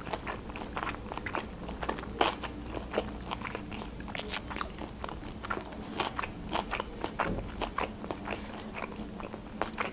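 A woman chewing a mouthful of sushi close to the microphone: a run of crunchy, wet clicks a few times a second.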